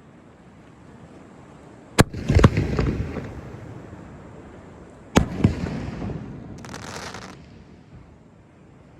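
Aerial fireworks bursting: two sharp bangs about three seconds apart, each followed quickly by more reports and a fading rumble. Near the end there is a brief high crackle.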